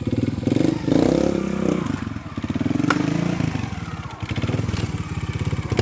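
Trials motorcycle engine running at low revs and blipped up twice, with a sharp click about three seconds in.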